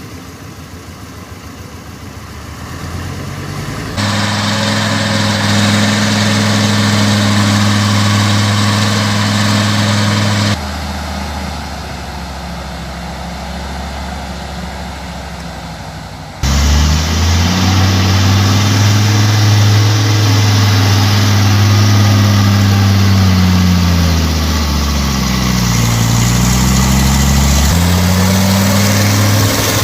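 A heavy log truck's diesel engine labouring through mud, heard in several clips cut one after another. The pitch rises and falls as the engine is revved, with a deep dip and climb a little before the end.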